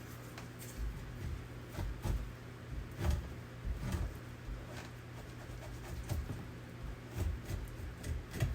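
Irregular soft scrapes, clicks and low knocks of an otter's tail and hide being worked by hand and knife while it is skinned.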